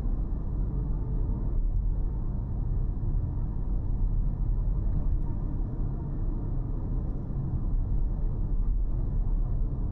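Car driving along a city road: a steady low rumble of engine and tyres.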